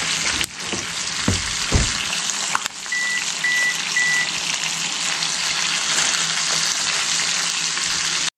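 Butterflied chicken frying in butter and oil in a skillet, a steady sizzle. There are a couple of low knocks between about one and two seconds in, and three short electronic beeps about three to four seconds in.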